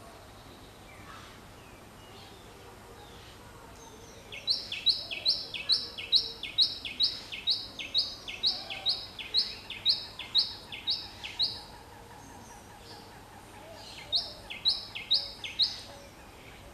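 A songbird singing a fast, repeated two-note phrase, a high note dropping to a lower one, about two phrases a second. It sings one run of about seven seconds and a shorter run near the end, over a steady outdoor background hiss.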